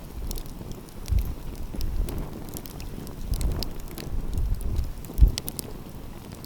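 Wood fire crackling, with frequent short sharp pops and snaps, over a low gusty rumble of flames and wind on the microphone, which gives one stronger thud about five seconds in.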